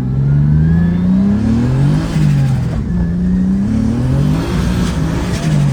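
Turbocharged BMW E30 drift car's engine revving hard under load, its pitch climbing and dropping several times as the throttle is worked.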